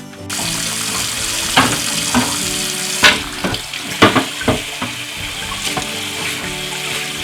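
Water running from a tap into a sink, switched on suddenly just after the start, with scattered knocks and clatter of items being washed under it. Soft background music underneath.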